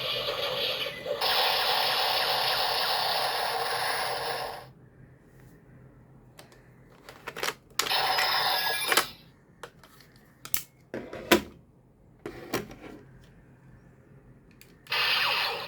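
Bootleg Zero-One Driver toy belt playing its electronic sound effects through its small speaker, cutting off about five seconds in. Then a few sharp plastic clicks and snaps with short bursts of sound as the belt and its Progrise key are handled, and the belt's sound starts again near the end.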